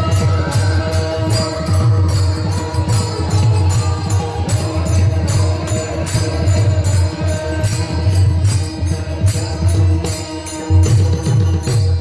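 Bharud devotional folk music: fast, even jingling percussion over a steady held instrumental drone and a deep beat.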